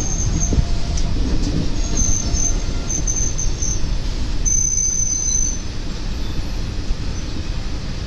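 Express train coaches running on the rails, heard from an open door: a steady heavy rumble with a high-pitched wheel squeal that comes and goes several times as the train rounds a curve.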